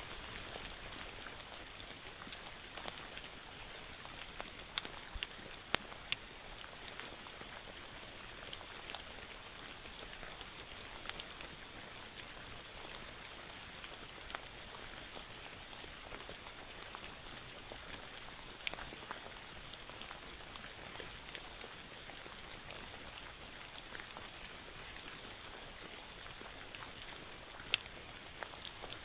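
Steady rain pattering on forest foliage, with a few sharper drip ticks, a cluster of them about five seconds in and one near the end.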